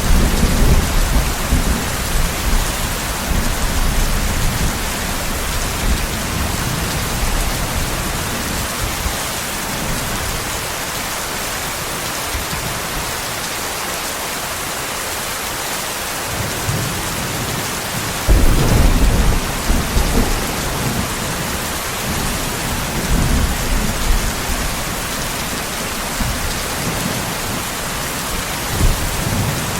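Steady heavy rain with rolls of thunder: a rumble at the start, a stronger one about eighteen seconds in, and smaller ones later.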